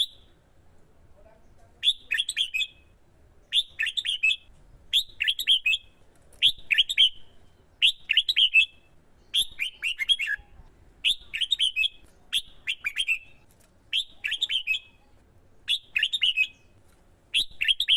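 Red-whiskered bulbul singing: short, bright song phrases repeated about every one and a half seconds, starting about two seconds in.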